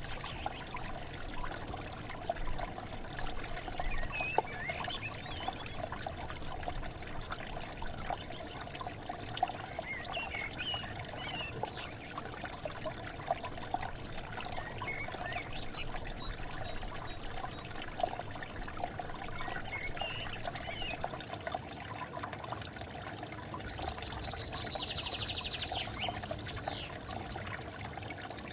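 River water flowing and trickling steadily, with small birds giving short chirps every few seconds and a quick rapid trill near the end.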